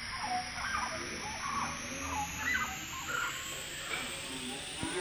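Birds calling, with many short chirps repeated over a steady background hiss.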